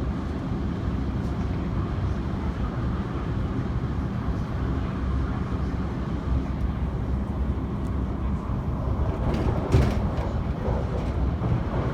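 Electric train running on the line with a steady low rumble, and a sharp clank about ten seconds in.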